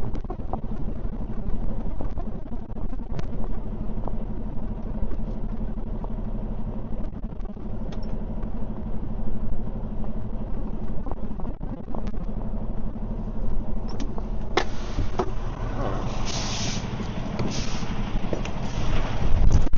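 Semi-truck diesel engine running steadily, with a few clicks and several short hisses about two-thirds of the way through.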